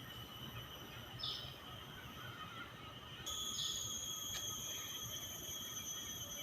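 Mangrove insects buzzing with a steady high-pitched drone. A second, louder insect joins abruptly about three seconds in. Two short chirps are heard, one about a second in and another after the second insect starts.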